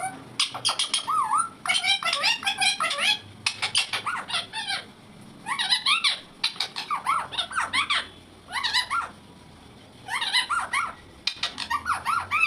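Indian ringneck parrot chattering in quick, high squeaky chirps, in bursts of a second or so with short pauses between them.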